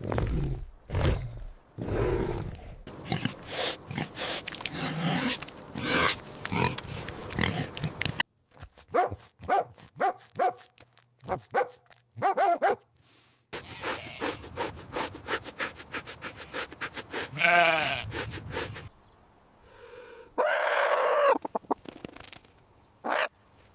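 A run of separate recorded farm-animal calls, one after another, with bleats the clearest among them. Pitched calls with a rise-and-fall shape come about two-thirds of the way in and again near the end.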